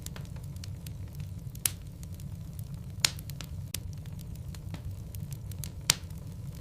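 Wood logs burning in a fireplace: a steady low rumble with scattered small crackles and three loud, sharp pops, about a second and a half apart and the last near the end.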